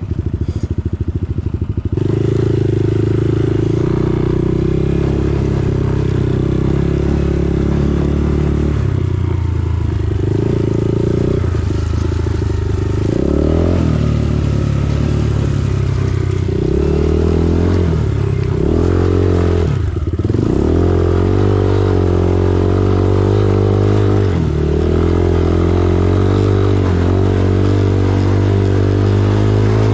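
Dirt bike's single-cylinder engine running under load on a trail, its revs rising and falling as the throttle is worked, with sharper drops and pick-ups of revs about 13 and 20 seconds in.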